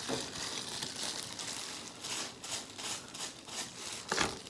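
Hair being handled and rubbed close by while bleach is worked into it: soft crinkly rustling in repeated strokes, with a sharper knock near the end.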